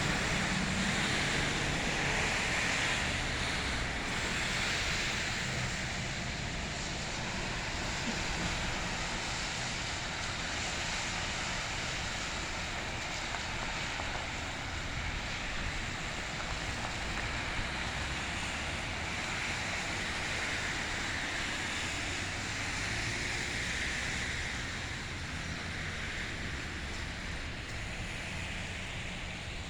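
Steady rushing outdoor noise that swells and fades every few seconds, in the way of wind or traffic passing on wet, snowy roads.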